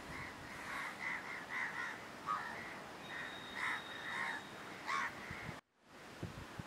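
Birds calling in a quick run of short, repeated calls, two or three a second, with a faint thin whistle-like tone for about a second midway. The sound cuts out completely for a moment near the end.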